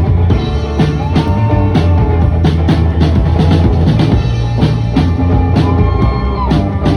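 Live rock band playing: a steady drum-kit beat over a sustained bass line, with a held high lead note that slides up, holds and falls away, twice.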